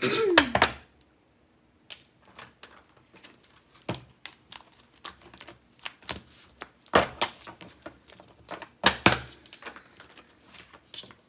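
A tarot deck being shuffled and handled: a run of light clicks and rustles of cards, with two louder slaps about seven and nine seconds in.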